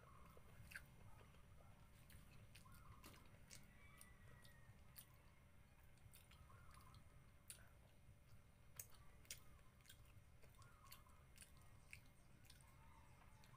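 Faint chewing and scattered wet mouth clicks of a person eating rice and vinegar-stewed fish by hand, over a low steady hum.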